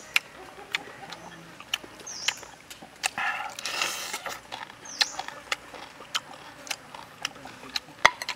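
Close-up eating sounds of a grilled pig leg: repeated wet lip-smacking and chewing clicks, with a longer noisy bite or slurp at the crisp skin and fat about three seconds in.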